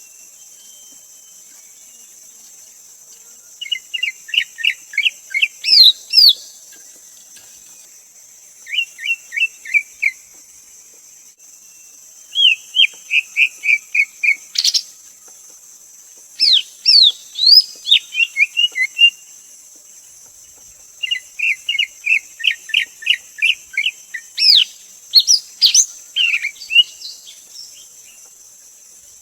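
Greater green leafbird singing: five phrases of rapid, repeated whistled notes mixed with quick rising and falling sweeps, separated by pauses of one to two seconds.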